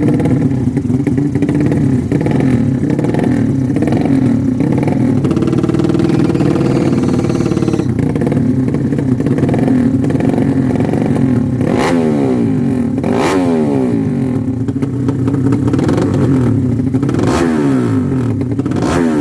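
Motorcycle engines running and revving, with several bikes passing close by: four quick rises and falls in pitch in the second half.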